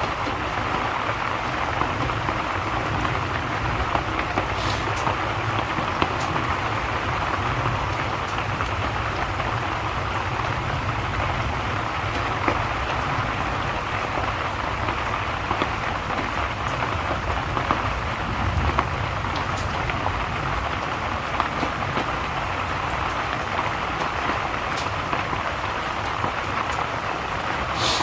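Steady rain falling, with a few sharp clicks scattered through it.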